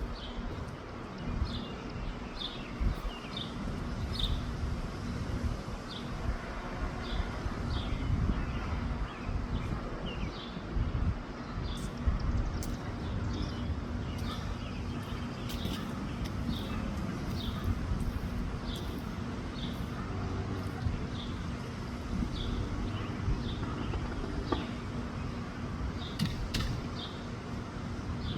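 Wind buffeting the microphone as a constant low rumble, while small birds chirp over it: short high chirps repeating irregularly.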